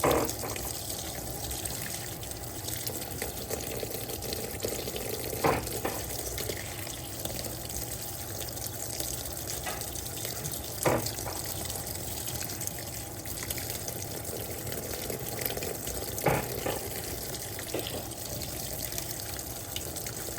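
Electrolux LTP15 top-loading washing machine filling with water for its first rinse, water running steadily into the tub. A short knock comes four times, about five seconds apart.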